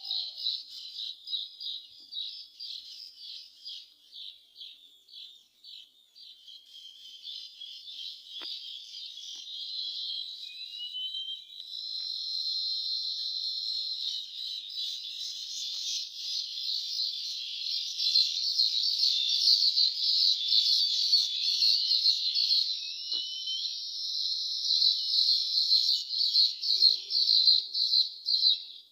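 Small birds chirping continuously in rapid, high-pitched trills, growing louder about halfway through, with a couple of short rising calls mixed in.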